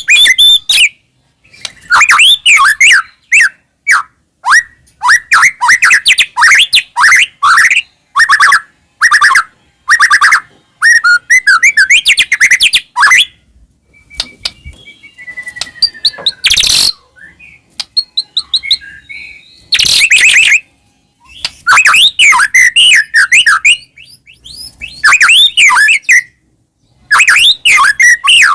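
White-rumped shama singing in loud bursts of fast, varied whistled and chattering phrases, broken by short pauses, with a few harsh, sharp notes about halfway through. This is the vigorous full song that keepers call gacor.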